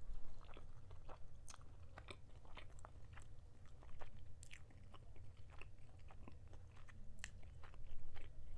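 A person chewing a bite of chicken drumstick close to the microphone, with many irregular mouth clicks and smacks.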